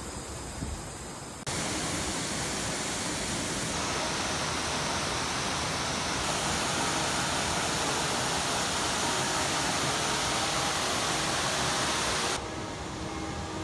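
Waterfall rushing, a steady dense roar of falling water. It jumps louder about a second and a half in and drops back near the end.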